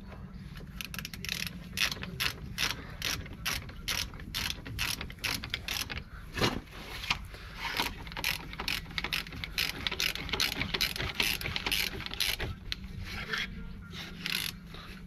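Repeated sharp metallic clicks, irregularly about two or three a second, from hand tools at work on a van's drum brake assembly during a brake shoe change.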